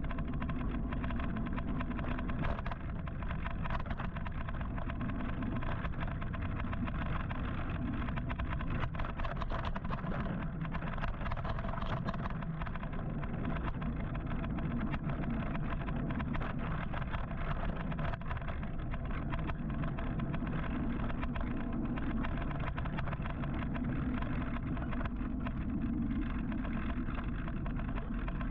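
Steady city traffic and road noise with a low wind rumble, heard from an electric motorcycle riding in rush-hour traffic.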